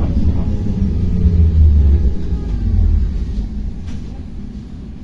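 Ride noise inside a Belkommunmash BKM-60102 in motion: a low, steady rumble that is loudest for the first three seconds, then dies down.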